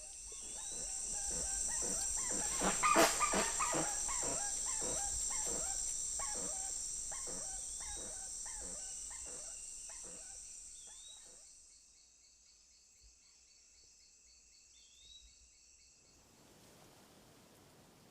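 Spix's guan alarm calls: a fast series of short yelping notes, about two or three a second, growing loud and then fading away over roughly ten seconds. The calls are a sign of danger, warning other animals at the lick to leave. A steady high insect buzz runs under the calls and stops about twelve seconds in, leaving a soft hiss.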